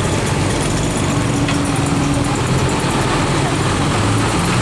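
Heavy truck engine running steadily with a low hum.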